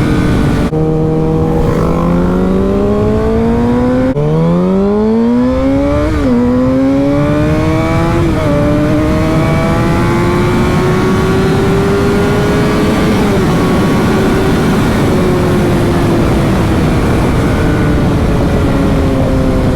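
Sport motorcycle engine accelerating hard through the gears. It climbs in pitch with upshifts at about 1, 4, 6 and 8 seconds in, then holds a cruise and slowly eases off, with steady wind and road rush throughout.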